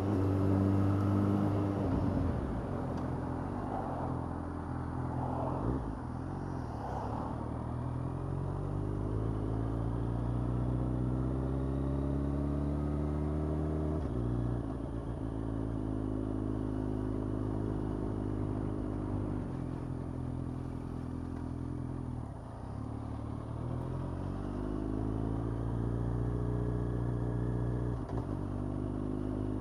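Yamaha FZ8's inline-four engine running under way, its pitch climbing steadily as the bike accelerates, then dropping off at a throttle lift or gear change about halfway through. It climbs and drops again a few more times.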